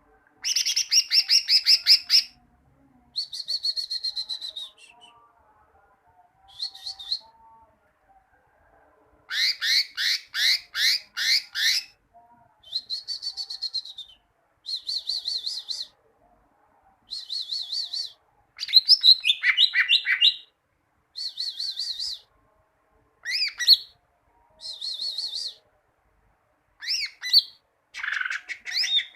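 Cucak ijo (greater green leafbird) singing: a series of short phrases of fast, high, repeated chirping notes, separated by brief pauses.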